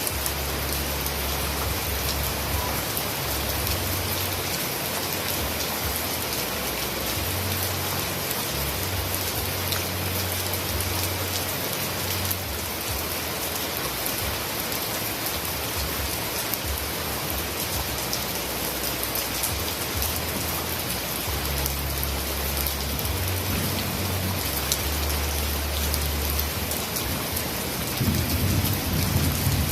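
Steady heavy rain falling, an even hiss of many drops. A low rumble, typical of distant thunder, comes and goes underneath and swells louder near the end.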